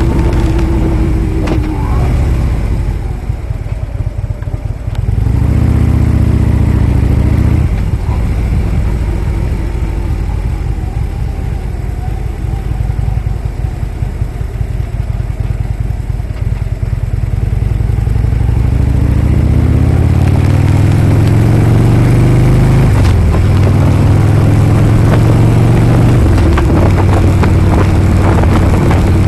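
Harley-Davidson V-twin motorcycle engine under way. It slows with a falling note just after the start, runs quieter and low for a long stretch with a short pull near six seconds in, then speeds up with a rising note from about two-thirds through and holds steady to the end.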